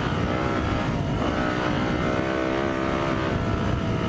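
Four-stroke dirt bike engine running under throttle at fairly steady revs, its pitch rising and dipping slightly, with low wind rumble on the helmet-camera microphone.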